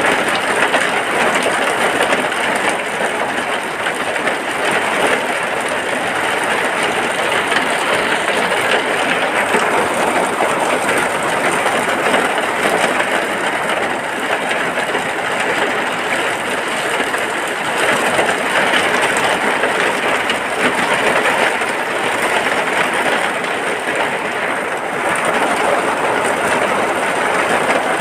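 Rain falling steadily on a hut, a dense, even hiss with no let-up.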